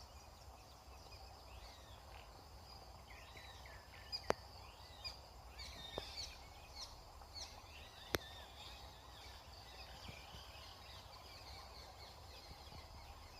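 Birds chirping, a cluster of short calls a few seconds in, over a steady high insect chorus. Three sharp clicks stand out as the loudest sounds.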